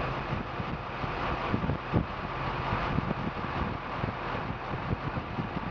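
Car engine idling steadily, with wind buffeting the microphone in irregular low thumps.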